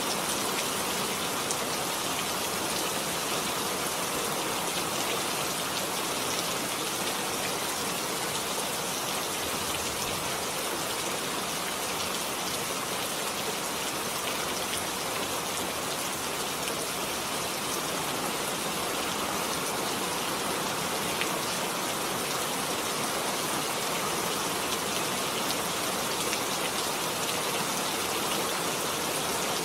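Heavy rain falling steadily, a dense even hiss with scattered drops ticking on surfaces.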